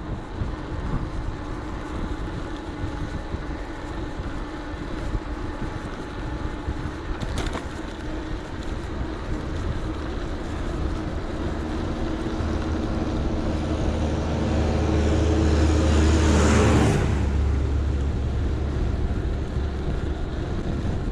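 Wind and tyre noise of an electric bike riding along a lane, picked up by a bike-mounted action camera. About two-thirds of the way through, a car approaches, grows louder and passes close by, then quickly fades.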